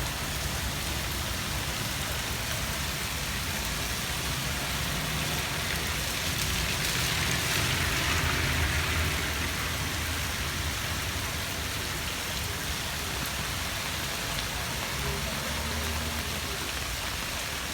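Steady heavy rain falling, an even hiss that swells louder for a few seconds around the middle.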